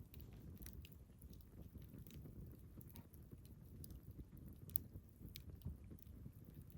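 Small wood campfire burning: scattered sharp crackles and pops from the burning logs over a low steady rumble, with one louder pop a little before the end.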